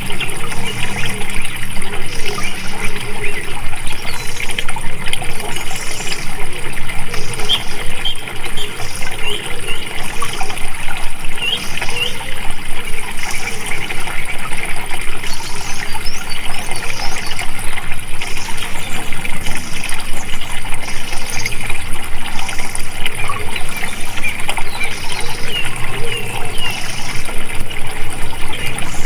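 Water flowing and splashing steadily, with small birds chirping over it and a high pulsing sound repeating about once a second.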